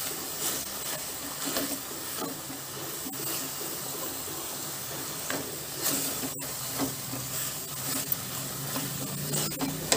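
Gongura (sorrel) leaves sizzling in hot oil in a metal kadai, stirred with a spatula that scrapes the pan now and then, as the leaves are cooked down until soft.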